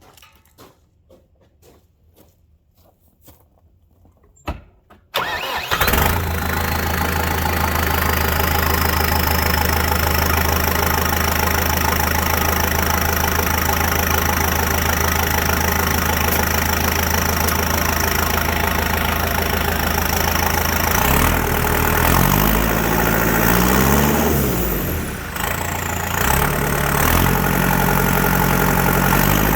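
Tractor engine running straight-piped with no muffler: it starts about five seconds in after a click, then idles steadily. From about twenty seconds in it is revved up and back down twice.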